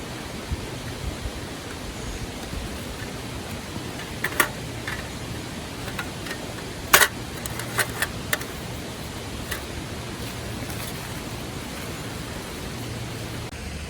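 Steady rushing of river water, with scattered sharp snaps and clicks over it, the loudest about seven seconds in.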